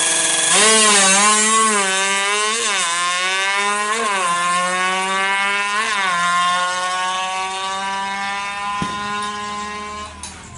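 Yamaha F1ZR two-stroke engine, bored to 116 cc and drag-tuned, revving hard: its pitch climbs to three sharp peaks over the first six seconds, then holds steady before dying away near the end.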